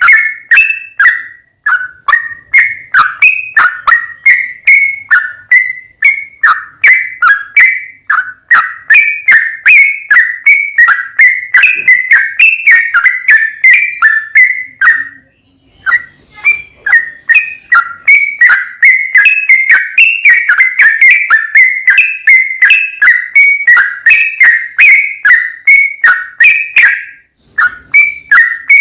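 Yellow-vented bulbul (trucukan) song: a long, rapid run of short whistled notes, about three a second, with brief breaks about a second and a half in, halfway through and near the end.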